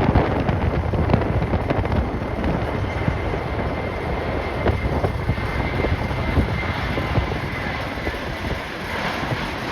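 Jet airliner engines running, with a faint steady whine that comes in about three seconds in and fades near the end, under strong wind buffeting the microphone.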